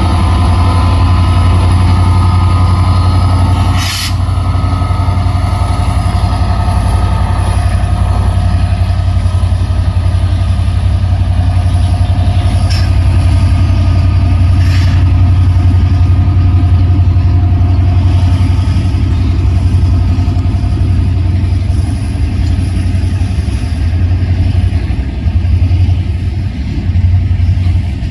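Diesel freight locomotive running with a steady low drone, with a few short sharp clicks, the loudest about four seconds in.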